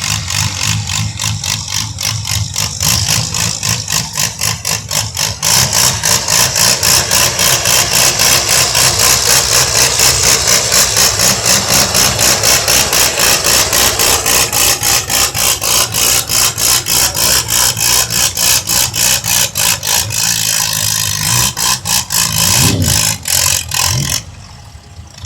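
Old tractor engine, a 1951 Oliver 77, running hard under load on a pull, with loud rhythmic exhaust pulses at a few a second. It gets louder about five seconds in and cuts off suddenly near the end.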